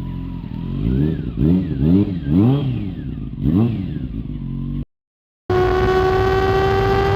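1999 Honda CBR600F4 inline-four sport bike engine with a Delkevic exhaust, revved in about five quick blips that rise and fall in pitch. After a short break, a steady high engine note climbs slowly, as when riding at speed.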